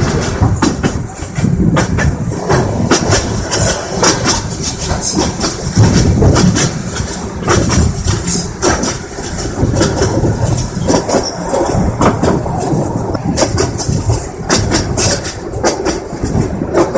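Passenger train running along the track, a loud steady rumble of the carriage with many irregular knocks and rattles from the wheels on the rails, heard from an open carriage window.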